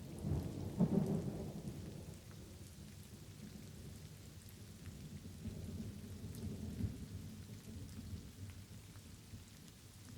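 Light rain with thunder. A thunder rumble peaks about a second in and dies away by two seconds, and a softer rumble swells again around six to seven seconds, over steady light rain patter with scattered drop ticks.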